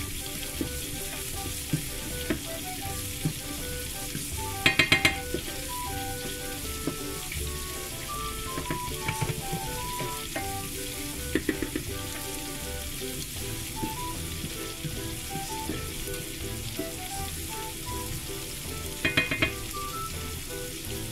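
Shrimp deep-frying in a saucepan of oil, a steady sizzle, with chopped garlic and onion frying in a pan beside it. A spatula scrapes and taps in the frying pan in short bursts, loudest about five seconds in and near the end.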